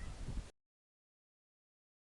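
Wind rumbling on the microphone for about half a second, then the sound cuts off abruptly to complete silence.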